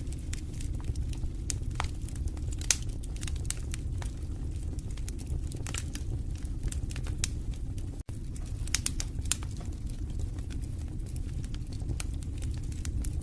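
Fireplace fire burning with a steady low rumble of flames and irregular sharp crackles and pops, the loudest pop coming about three seconds in. The sound drops out for a moment about eight seconds in.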